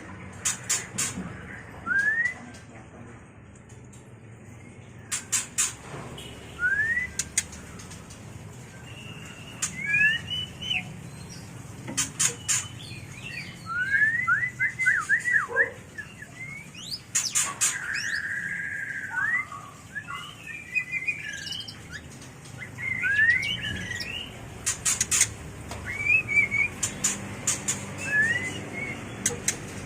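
White-rumped shamas in breeding condition calling: short rising whistles, quick chattering trills and squawks, broken by clusters of sharp clicks.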